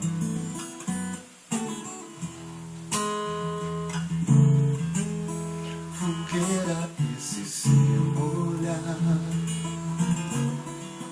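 Acoustic guitar being strummed, chords changing every second or two: the instrumental intro of a song.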